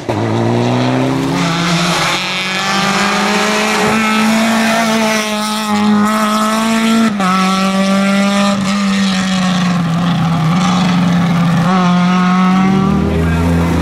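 Rally car engine held at high revs, its pitch creeping upward and then stepping down about seven seconds in before holding steady again.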